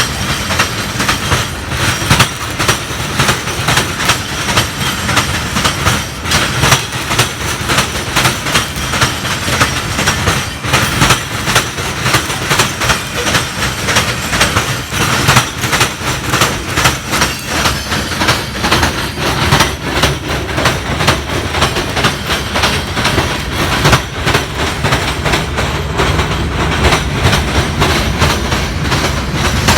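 A train's cars rolling past close by, their wheels clicking rapidly and continuously over the rail joints over a steady rumble, with no horn sounding.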